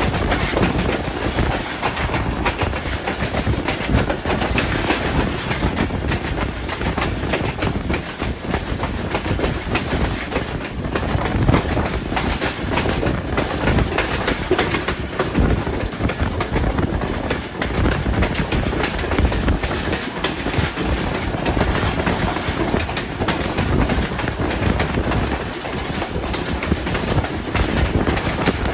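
Hazara Express passenger train running: a steady rumbling roar from the wheels on the track, with irregular clattering knocks from the rail joints.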